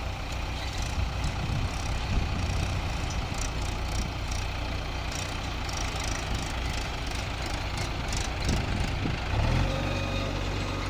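Heavy diesel engine running steadily, with scattered sharp rattling in the middle. Near the end the engine note steps up.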